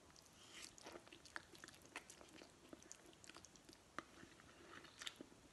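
Faint wet chewing of a mouthful of Samyang spicy instant noodles, with many small sharp mouth clicks.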